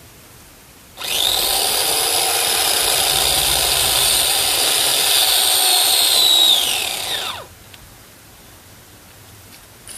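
Electric chainsaw motor starting abruptly, running steadily with a high whine for about six seconds, then winding down with a falling pitch as it is released.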